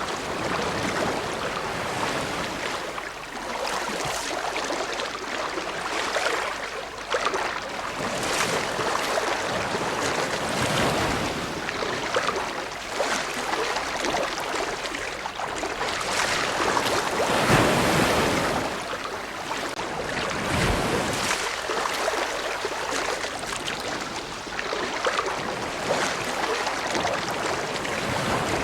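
Ocean surf: a continuous wash of waves, rising and falling in swells every few seconds, the loudest a little past halfway.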